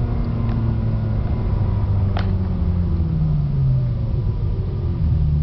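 Ferrari 360 Modena's straight-piped 3.6-litre V8 heard from inside the cabin, running steadily under way; its note slowly sags in pitch and then rises again near the end. A brief high chirp about two seconds in.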